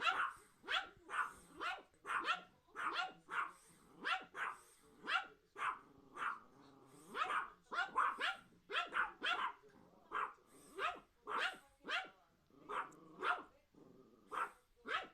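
A pet dog barking over and over at a radio-controlled toy car, about two sharp barks a second without a pause.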